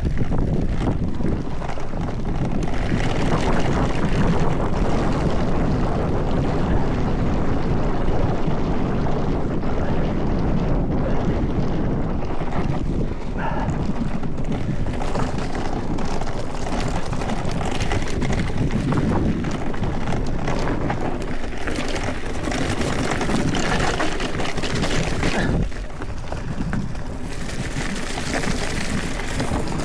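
Hardtail mountain bike descending a rough trail: tyres rolling over dirt and stones, with the bike rattling and knocking on the bumps and wind buffeting the microphone.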